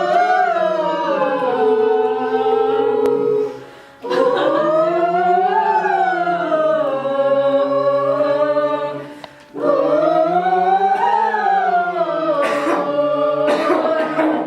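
Small a cappella group singing a vocal warm-up in parts: three long held phrases, each rising and then falling in pitch, with a short breath between them.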